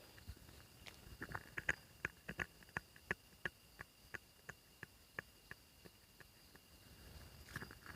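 Irregular sharp taps and clicks, about two to three a second, that thin out after about five seconds, over the faint steady high drone of night insects.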